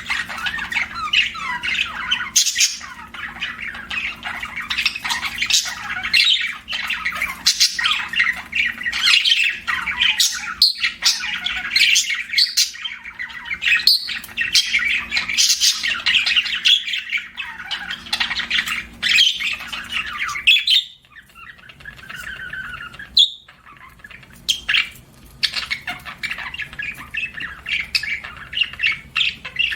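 Budgerigar chirping and chattering in quick, busy warbles, easing off about twenty seconds in, with one sharp call a few seconds later before lighter chirping resumes.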